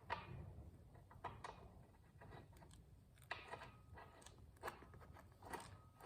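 Near silence with a handful of faint, scattered clicks and light scrapes: the motorcycle's rear axle nut being threaded on by hand.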